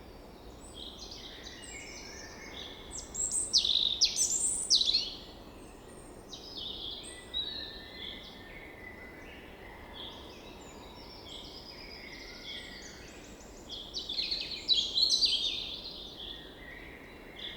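Several songbirds chirping and singing, with louder bouts of rapid trills about three seconds in and again near the end, over a faint steady background hiss.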